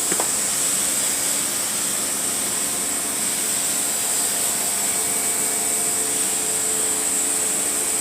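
Steady mechanical hiss from a running machine, an even rushing noise with a high whine-like band that holds constant throughout.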